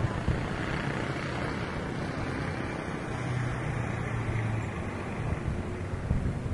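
Wind buffeting the microphone, a steady rushing noise with a low hum that swells in the middle.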